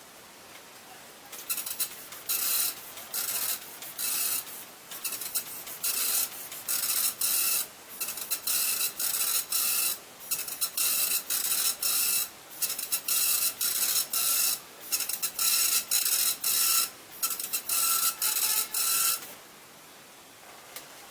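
Epson dot matrix printer printing. The print head makes a rapid series of short buzzing passes, each a fraction of a second, with brief pauses between lines, and stops near the end.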